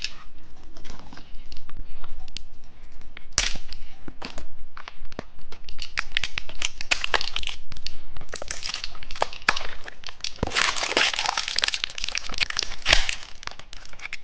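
A candy wrapper being torn open and crinkled by hand: a long run of sharp crackles and rustles, densest and loudest about three quarters of the way through.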